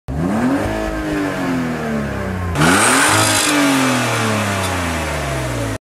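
Car engine revved while parked in P: the pitch climbs quickly and then sinks slowly back toward idle. This happens twice, the second rev about two and a half seconds in.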